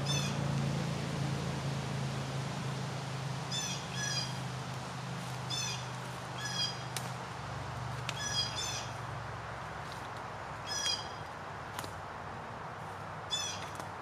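A bird calling in quick clusters of short, high notes, repeated every two or three seconds, over a steady rush of wind. Two faint sharp clicks fall between the calls.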